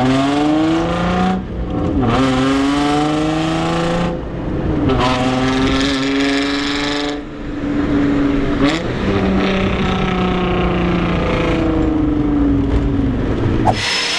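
Nissan 350Z's V6 engine accelerating hard through the gears, its pitch climbing and then dropping at each of about four gear changes. It eases off and falls in pitch over the last few seconds, then stops abruptly near the end.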